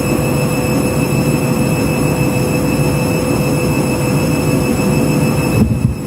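Overdosed washing machine running through a suds lock, with its drum packed with foam: a steady mechanical rumble with a constant motor whine. A brief louder knock comes near the end, after which it runs a little quieter.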